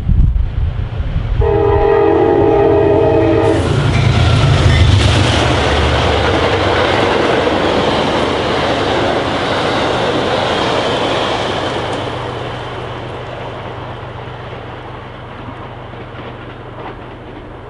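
A train sounds its horn in one blast of about two seconds, several tones at once, as it comes in. It then passes at speed with a loud rushing rail noise that slowly fades away. A gust of wind buffets the microphone at the very start.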